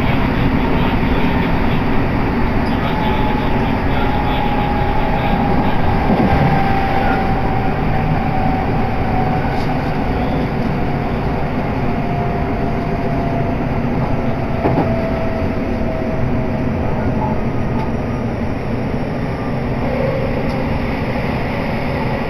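Commuter train running on the JR Kobe Line, heard inside the passenger car: a steady rumble from wheels and track, with a faint whine that slowly falls in pitch.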